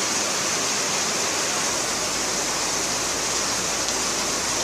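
Steady hiss of heavy rain falling, an even noise without breaks or rhythm.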